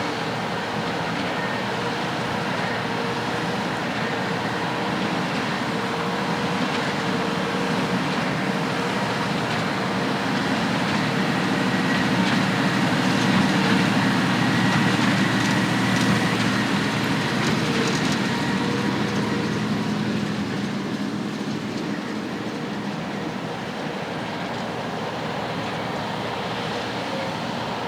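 Heavy farm machinery running steadily. It grows louder toward the middle, then eases off again, as a machine passing by would.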